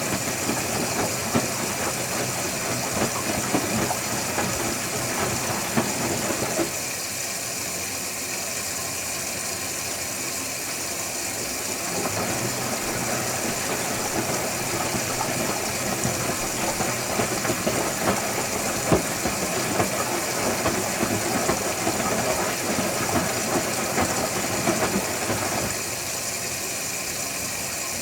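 Electrolux Wascator W355H commercial washing machine running a wash, its drum tumbling the load in spells. The tumbling stops for about five seconds about a quarter of the way in, starts again, and stops again near the end, leaving a steady hum.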